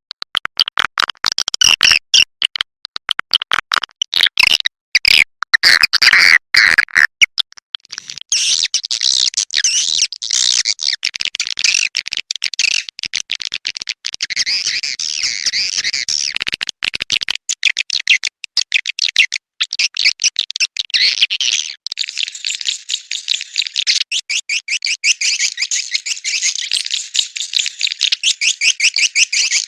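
Swiftlet lure call: edible-nest swiftlets twittering and clicking in a dense, high chorus, played to draw swiftlets into a nesting house. Sharp clicks dominate at first, then thick chirping, and from about two-thirds through a fast, even run of pulsed chirps.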